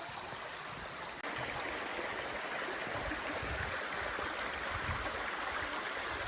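Steady rushing water of the River Trevillet stream in St Nectan's Glen. It cuts out for an instant about a second in and comes back louder and brighter.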